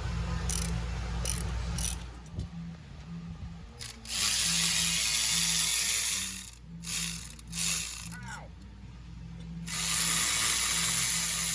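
Socket ratchet clicking in three long spells while exhaust manifold bolts are turned.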